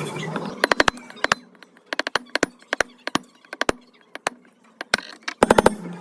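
Irregular sharp taps and knocks from work on an old generator, some coming in quick runs of two to four, with quiet gaps between them.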